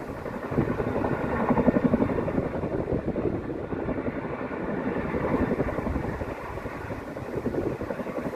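Helicopter's rotor beating steadily over its engine, the loudness swelling and easing, as it takes on water.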